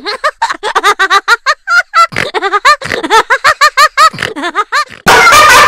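High-pitched giggling laugh, a rapid run of short 'hee' notes at about four or five a second, with no room sound behind it, like a comedy laugh sound effect; it cuts off abruptly about five seconds in.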